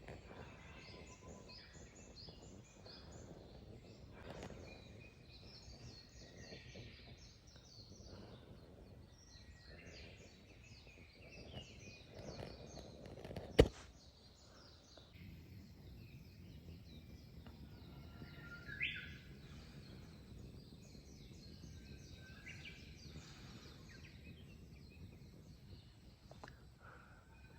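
Morning chorus of small birds chirping and singing, including a Japanese bush warbler, over a low background rumble. A single sharp click about halfway through is the loudest sound.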